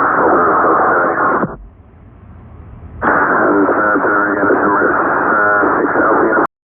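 Air traffic control radio transmissions heard through a scanner: narrow, band-limited voice audio in two stretches, with a quieter gap from about 1.5 to 3 seconds in. It cuts off abruptly near the end.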